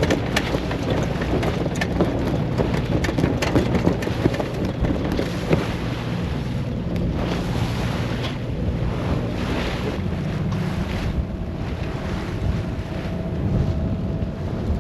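Wind buffeting the microphone on a sailboat under way, over the rush of water along the hull and waves, with crackling gusts in the first few seconds.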